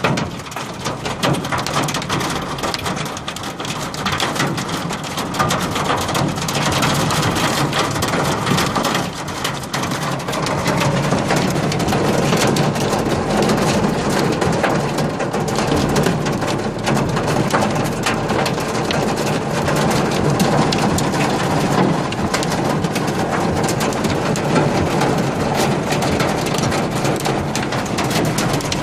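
Hailstones and rain pelting down in a dense, steady clatter of countless small impacts, growing heavier about ten seconds in.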